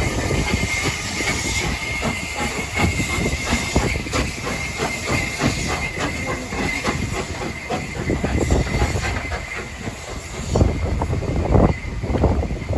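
Train running past, its wheels clicking in a quick even rhythm over the rail joints, with a thin steady high wheel squeal and a low rumble.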